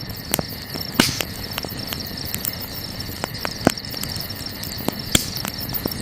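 Wood campfire crackling with sharp, irregular pops, the loudest about a second in, midway and near the end, over a steady high chirring of crickets.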